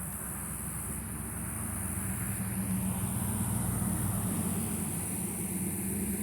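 A motor vehicle's engine running steadily with a low hum, growing louder a couple of seconds in and easing slightly near the end.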